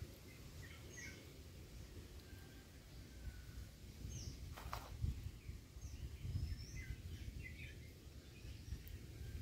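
Small birds calling with short, scattered chirps over a low rumble, with one sharper, louder sound near the middle.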